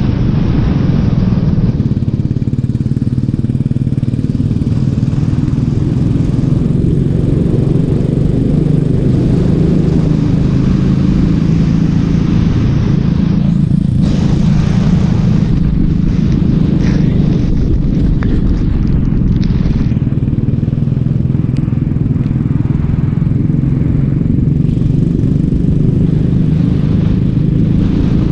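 Racing kart's engine running hard on track, its note rising and falling a little through the lap. A brief rush of noise comes about halfway through.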